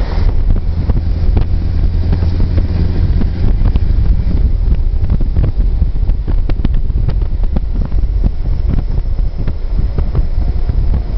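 Scania truck engine running with a deep, steady low rumble, with wind buffeting the microphone in irregular crackles.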